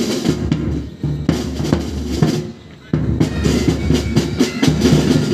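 Military pipe band drum section playing snare, tenor and bass drums together in a fast, dense rhythm, with a brief drop in loudness about two and a half seconds in.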